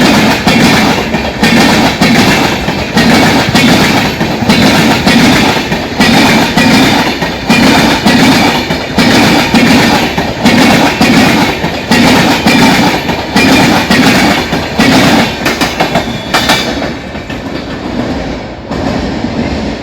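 Train passing close by, its wheels clattering over the rail joints in a steady rhythm of clacks, a cluster about once a second. The clatter thins and fades near the end as the last coaches go by.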